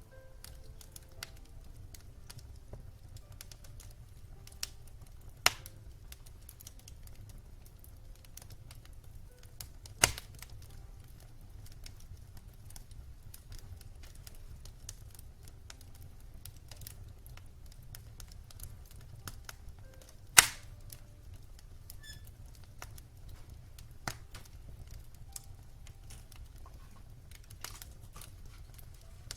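Wood fire crackling in a fireplace: irregular sharp crackles with three loud pops, over a low steady rumble.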